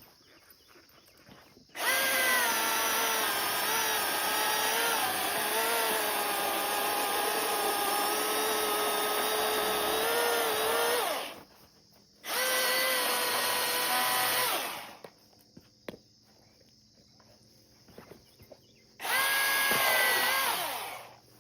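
Milwaukee Fuel 16-inch battery chainsaw cutting through a log in three runs: one long cut of about nine seconds, then two short bursts, the motor's whine wavering in pitch as the chain bites. Crickets chirp steadily in the pauses.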